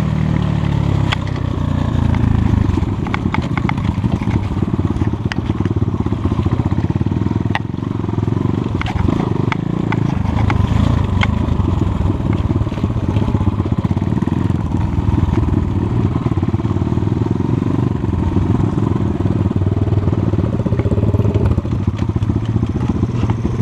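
Enduro motorcycle engine running at low to moderate revs. Scattered sharp clicks and knocks sound over it in the first half.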